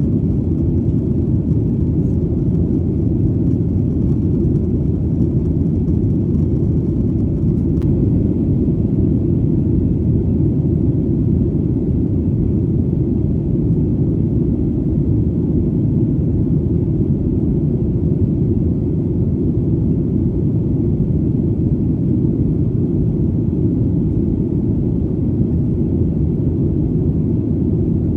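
Steady low rumble of an airplane engine in flight: an even, unchanging drone.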